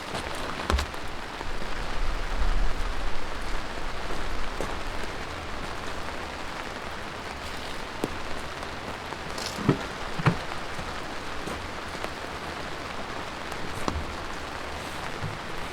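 Steady rain falling, with scattered louder single drops striking a surface. A low rumble runs briefly about two to three seconds in.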